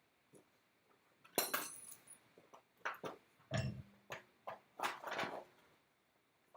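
Metal clinking and knocking: a string of sharp clinks spread over several seconds, with one heavier thump about three and a half seconds in.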